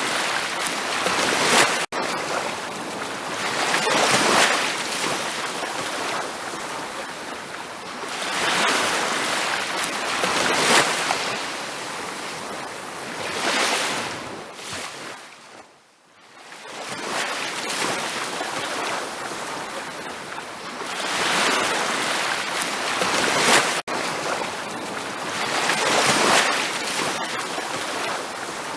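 Ocean surf washing onto a beach in repeated surges every couple of seconds. It fades almost away about halfway through before building again, and is cut by two split-second dropouts.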